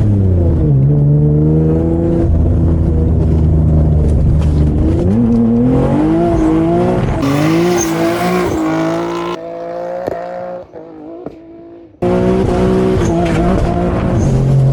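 Twin-turbo Infiniti G37's V6 engine running hard under way, its pitch holding steady, then climbing and rising and falling as the driver works the throttle. About nine seconds in it drops away to a much quieter sound, then comes back loud suddenly a few seconds later.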